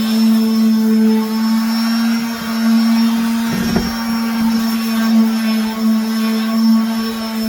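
Electric sander running steadily with a constant motor hum as 120-grit paper works the table's wood surface, with a brief bump about halfway through.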